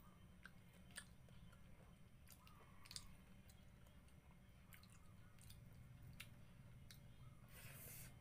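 Faint chewing and wet mouth clicks and smacks of someone eating rice and vinegar-stewed fish by hand, with a short rustle near the end.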